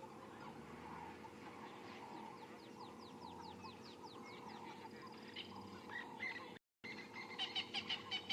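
Birds calling in the bush: a quick run of downward-sliding whistles, then sharp repeated calls at about three a second near the end, over a faint low steady hum. The sound cuts out completely for a split second just before the repeated calls.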